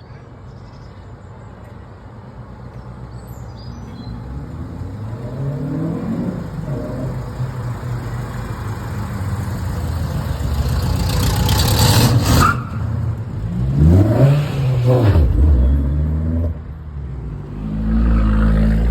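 A performance car's engine accelerating, growing louder with climbing revs to a peak about twelve seconds in. A quick rise and fall in revs follows around fourteen seconds, and another engine gets loud near the end.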